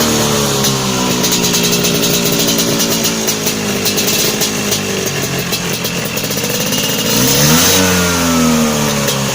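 Vespa scooter engine running through an aftermarket exhaust, its pitch sinking slowly as the revs fall, then revved up sharply about seven seconds in and dropping back. The exhaust is built to sound like a Kawasaki Ninja sport bike.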